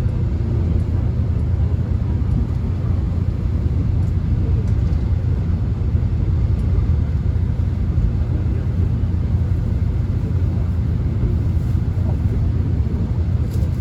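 Subway train running, heard from inside the carriage: a steady low rumble with an even wash of noise over it.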